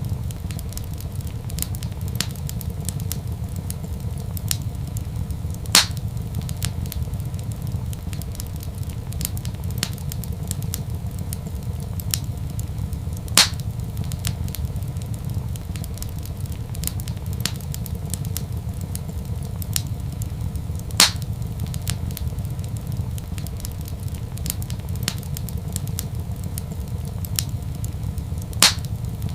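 Wood fire crackling in a fireplace: a steady low rumble under a constant scatter of small ticks, with four louder sharp pops spaced evenly about every seven and a half seconds.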